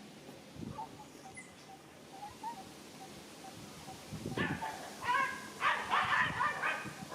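Baby monkey crying, a string of short, high-pitched squeals starting about four seconds in: the distress cries of a young monkey refused milk by its mother.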